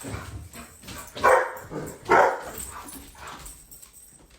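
A dog barking twice, a loud bark about a second in and another under a second later, with softer grumbling sounds around them.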